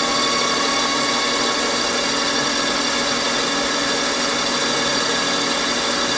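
Mini lathe running steadily with the carriage on automatic power feed, taking a ten-thousandths turning cut. It is an even, unchanging machine sound holding several fixed pitches.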